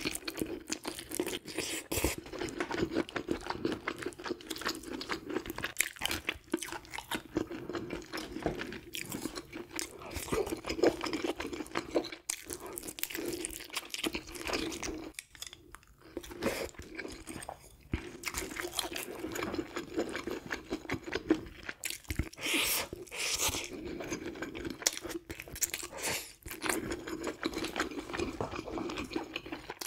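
Close-miked chewing and crunching of grilled sea bream: a dense run of small, wet crunches, with a few brief pauses.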